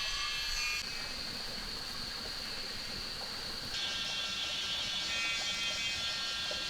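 Rainforest insect chorus: a steady high-pitched drone of many insects over a faint hiss. The chorus changes abruptly about a second in and again near four seconds.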